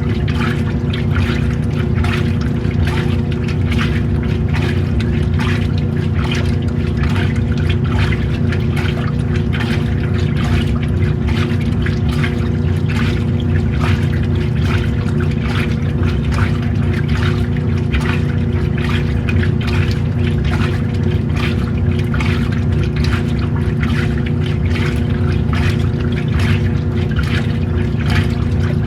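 An old-style washing machine running a wash: a steady motor hum under water sloshing in a regular rhythm as the load is churned.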